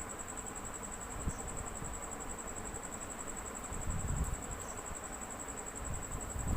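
A steady high-pitched insect trill, like a cricket, over a low rumble that swells briefly about four seconds in.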